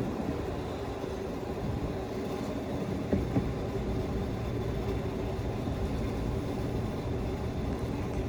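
A motor vehicle engine running steadily with a low, even sound.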